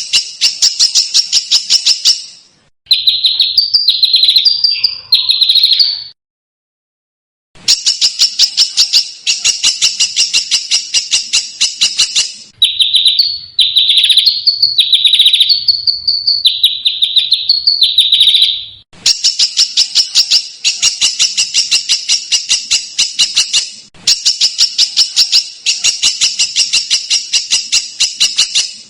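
Edited recording of a small songbird's harsh, rapid-fire calls played as masteran training audio. Phrases of fast rasping ticks alternate with shorter runs of slurred whistled notes. The phrases break off abruptly into silent gaps.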